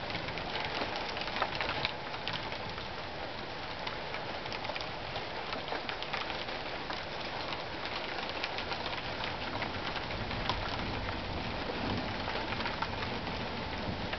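Steady rain at the start of a thunderstorm, with many close drops ticking sharply on a surface.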